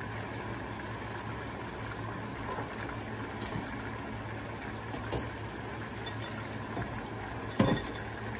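Chicken drumsticks frying in a pan of hot oil, a steady sizzle, with a few light clinks of dishes and one loud knock near the end as a bowl is set down.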